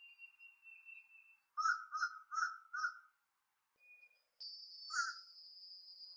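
A bird giving four short calls in quick succession, then one more near the end. About four seconds in, a steady high-pitched insect trill starts suddenly and runs on under it.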